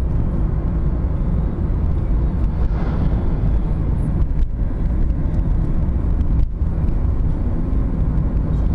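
Steady low rumble of a moving vehicle, with no clear engine note or sudden sounds.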